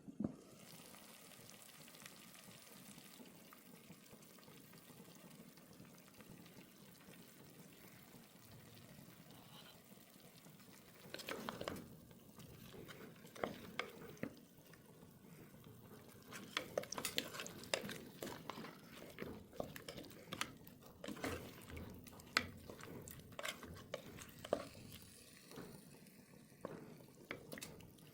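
Faint steady hiss, then from about halfway a run of light irregular knocks and clinks of cooking utensils against cookware, as in stirring or handling pots.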